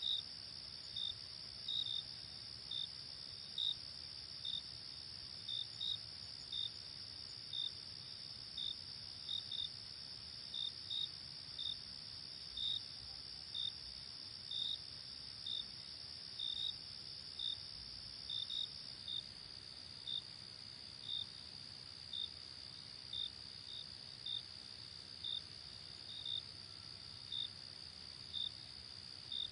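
Night crickets: a steady high-pitched trill, with short chirps repeating irregularly about one or two times a second over it.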